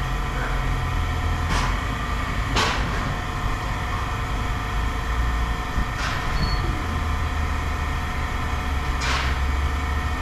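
A vehicle engine idling with a steady low hum, with four sharp knocks spread through it.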